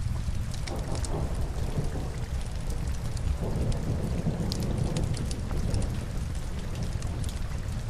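Steady rain mixed with a crackling log fire: a constant low rumbling hiss with scattered sharp crackles, swelling louder about a second in and again from about the middle.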